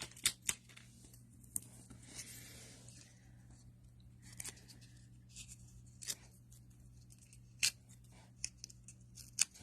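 Faint scattered taps and clicks of paper pieces being handled and placed on a card, with a brief soft rasp about two seconds in, over a low steady hum.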